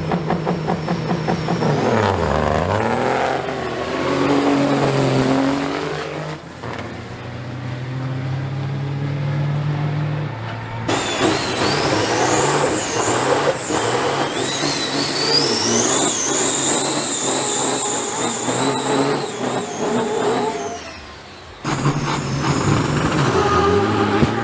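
Diesel semi-truck engines under hard acceleration in a drag race, the engine note climbing and dropping through gear changes, with a high whine rising in pitch partway through. The sound changes abruptly twice, about 11 seconds in and near the end.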